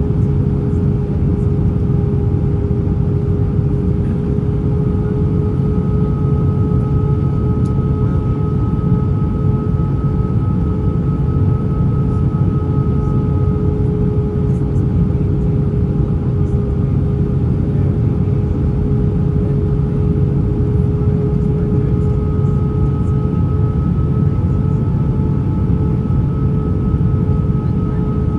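Airbus A320 cabin noise: a steady, loud low rumble of engines and airflow, with a constant whine from the engines above it.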